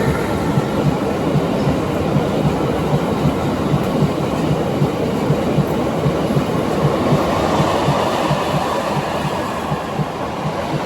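Freight train wagons rolling past, their wheels clattering in a steady rhythm over the rail joints, a little fainter near the end.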